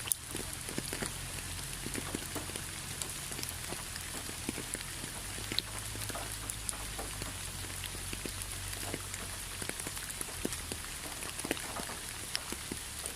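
Rain falling steadily, with many separate drops ticking sharply on a surface over a constant hiss.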